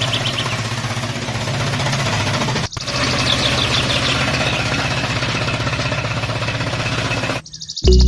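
An engine running steadily at idle with a fast, even beat. The sound breaks off briefly about two and a half seconds in and stops abruptly near the end. Faint bird chirps sound over it.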